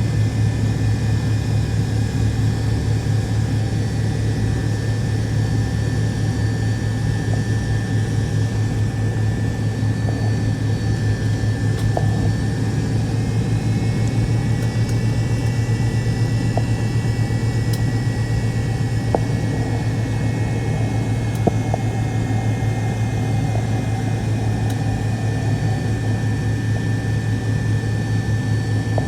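Cabin noise of a McDonnell Douglas MD-88's rear-mounted Pratt & Whitney JT8D turbofan engines, heard from a seat near the tail: a steady, loud low drone with a thin high whine over it, the whine edging slightly higher about halfway through.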